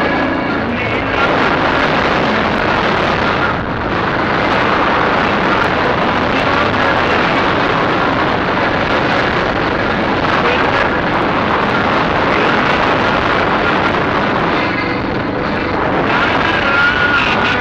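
Chinese 250 cc dirt bike running, nearly buried under loud, steady wind noise on the microphone.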